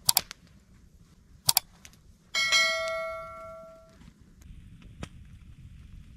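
Two sharp metallic clinks, then about two seconds in a metal object is struck and rings with a clear tone that fades over about a second and a half, followed by a single light tick.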